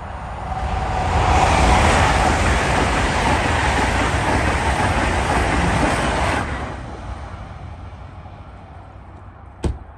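LNER Azuma high-speed train passing close by at speed: a loud rush of wheel and air noise that builds about a second in and fades away after about six seconds. A single sharp knock near the end.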